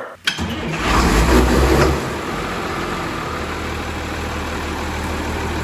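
A vehicle engine starting, running louder for under two seconds, then settling into a steady idle.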